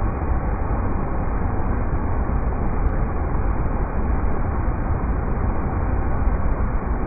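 River rapids: water rushing in a steady, unbroken roar, heaviest in the low rumble.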